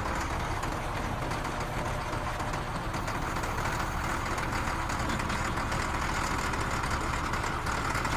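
Steady engine-like rumble with an even hiss above it.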